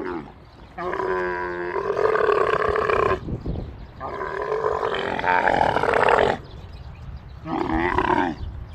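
Dromedary camels calling: four rough, pitched calls, a brief one at the start, two long ones lasting over two seconds each, and a shorter one near the end.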